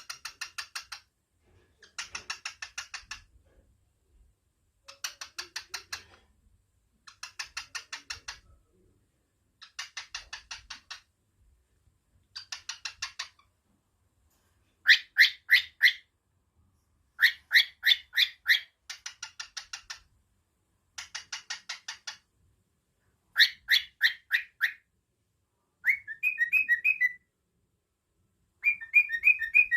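Cockatiel calling in a series of bursts, each about a second of rapid repeated chirps with about a second between bursts. Near the end the bursts turn into shorter warbling whistles.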